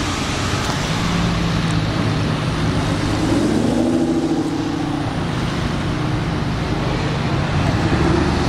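Sports car engines running as cars drive slowly past one after another, with an Audi R8 approaching and passing close near the end. About three seconds in, one engine's note rises in pitch as it accelerates.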